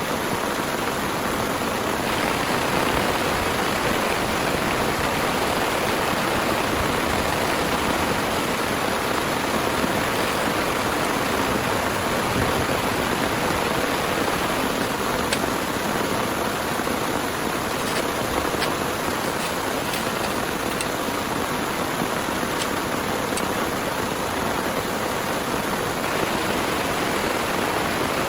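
Heavy rain falling steadily: a dense, even hiss with a few faint sharper drop ticks.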